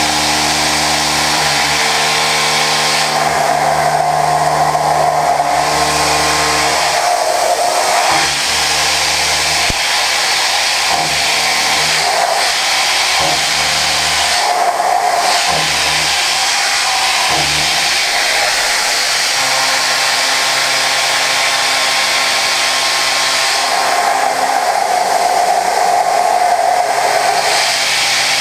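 Okuma GENOS M560V vertical machining centre milling prehardened 4140 steel at high speed with Sandvik Coromant cutters: a loud, steady cutting hiss with a ringing tone that fades and comes back several times as the tool moves through the cut. Low steady hums start and stop underneath.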